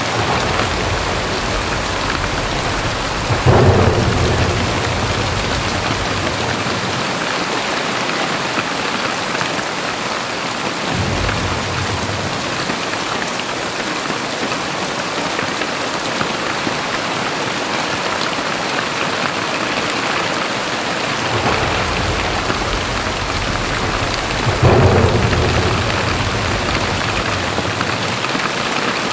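Very heavy rain pouring down steadily. Two low rumbles of thunder break in, one about three seconds in and another near the end, each dying away over a few seconds.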